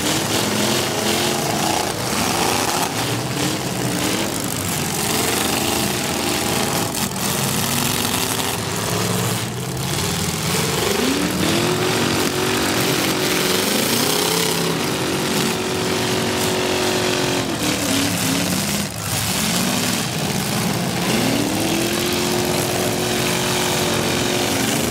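Several V8 demolition derby cars revving hard. Engine pitch repeatedly climbs and is held high for a few seconds, twice in the second half. A few sharp bangs come in the first half.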